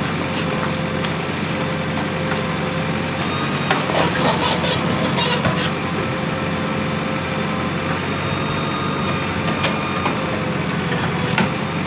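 JCB 3DX Plus backhoe loader's diesel engine running steadily, with a faint steady whine over the engine note. A few short clicks and knocks come about four to five and a half seconds in, and twice more near the end.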